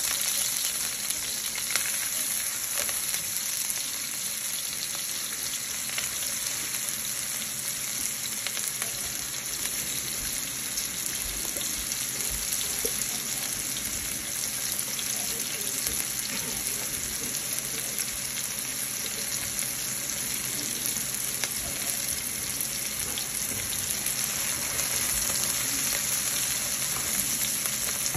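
Chopped onions and whole spices (bay leaves, cinnamon, cardamom, cloves) sizzling steadily in hot oil in a nonstick pan, stirred now and then with a spatula.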